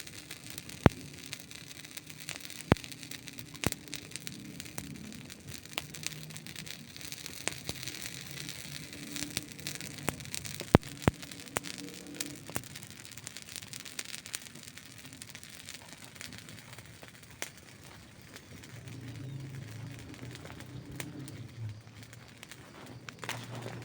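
Wood campfire crackling: a steady hiss of burning with frequent sharp pops and snaps, the loudest about a second in and about eleven seconds in. Under it runs a soft low rumble of flames that swells and fades.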